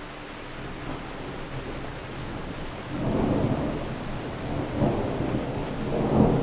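Steady rain with a roll of thunder building about halfway through, rumbling low in several swells and peaking near the end.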